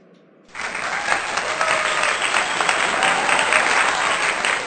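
Audience applause, starting suddenly about half a second in and continuing as a dense, steady clapping.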